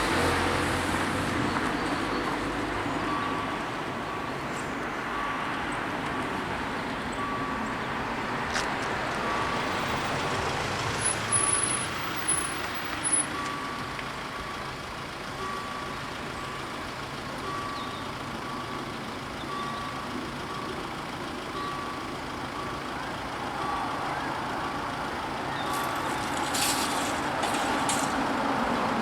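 Level crossing warning bell ringing, starting about three seconds in as the crossing activates, one short electronic tone about once a second over the noise of road traffic.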